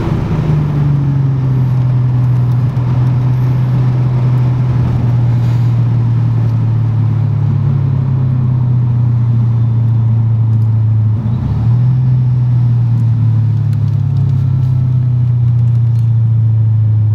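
Supercharged Mercedes E55 AMG 5.4-litre V8 heard from inside the cabin, running as a steady low drone while the car slows, the note sinking slowly in pitch. About eleven seconds in it dips briefly, then picks up again at a slightly higher note.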